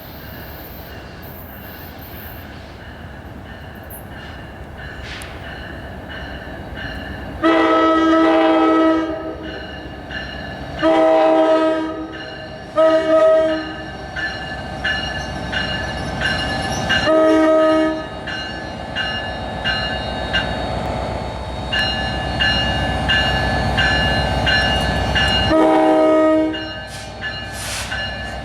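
Passenger train horn blowing a grade-crossing signal, long, long, short, long, with one more blast near the end. Under it the rumble of the approaching train grows steadily louder.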